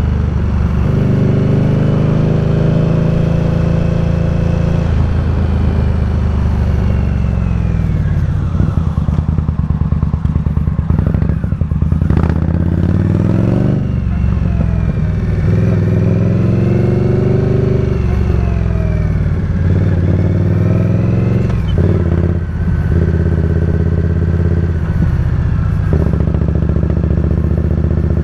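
Indian Scout Bobber's V-twin engine running under way. Its note holds steady, then falls and climbs several times through the middle as the revs drop and rise, and settles into a steady cruise near the end.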